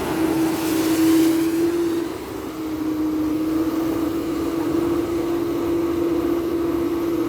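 Mitsubishi Canter dump truck's diesel engine running under load, with a steady whine that sags briefly about two seconds in and then holds. A short hiss comes near the start.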